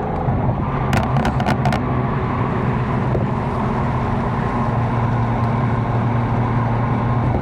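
Catless BMW M4's twin-turbo straight-six running steadily under light load while cruising in traffic, a low even drone. A quick run of sharp clicks comes about a second in.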